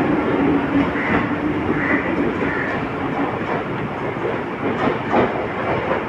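Mumbai local electric train running on the track, its wheels clattering over the rail joints. A steady hum stops about halfway through, and a few sharp clicks come near the end.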